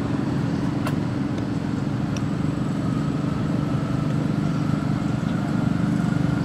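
Steady low rumble like a motor vehicle's engine running, with no break.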